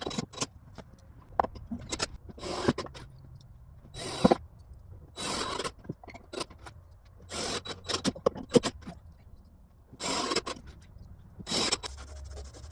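Screws being driven to fasten a glued desk top down: about eight short scraping bursts with sharp clicks between them.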